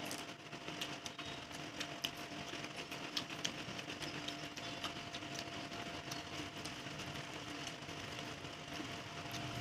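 Eating at a table: scattered small clicks and taps of hands and dishes over a steady background hum.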